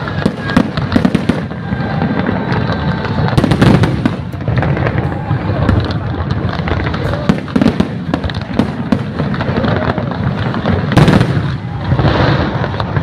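Fireworks display at full barrage: dense, continuous crackling and popping of many shells and crackling effects going off at once, with a few louder bangs standing out about three and a half seconds in and near the end.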